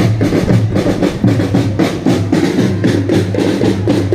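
Marching drum band playing a fast, steady beat on snare and bass drums.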